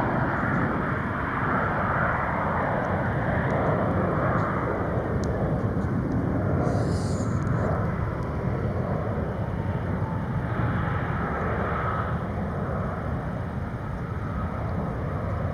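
CRJ-900 regional jet's twin turbofan engines running as it passes on arrival: a steady, dense jet noise with a faint whine, slowly fading toward the end.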